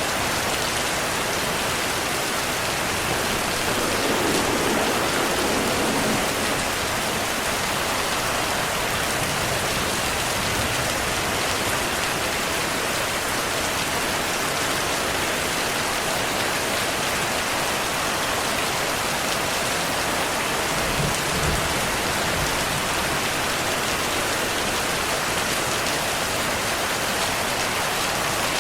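Heavy rain falling steadily. There are two brief low swells, one a few seconds in and one about three-quarters of the way through.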